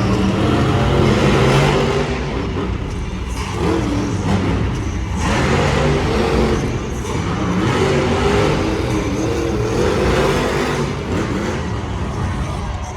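Monster truck engine revving hard in an arena, its pitch and loudness rising and falling repeatedly.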